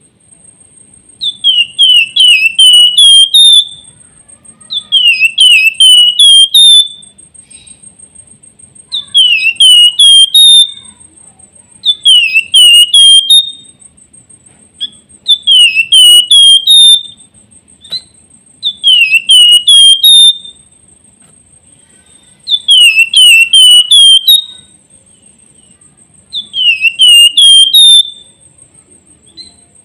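A flamboyan (wergan jawa) songbird singing in a clear whistled phrase of quick, swooping notes, repeated eight times at intervals of about three and a half seconds. A faint steady high-pitched whine runs underneath.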